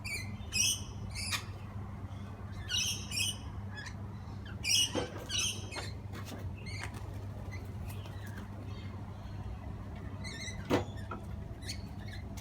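Parrots giving short high chirps and calls every second or two, with a few sharp clicks and a steady low hum underneath.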